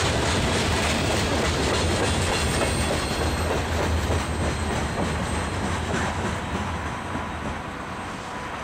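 Freight train rolling past, its covered hopper cars' wheels running on the rails. The sound holds steady at first, then fades over the last few seconds as the end of the train moves away.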